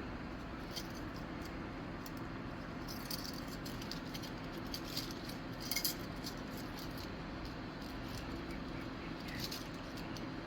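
Faint small metallic clicks and light jingling from a set of thin carburetor jet-cleaning wires being handled. The clicks come in scattered clusters, the busiest about six seconds in, over a steady low hum.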